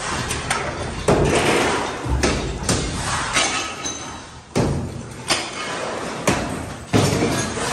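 Irregular heavy thuds and knocks of demolition work, about one a second, some sharper and louder than others, such as a hammer striking and pieces being broken out.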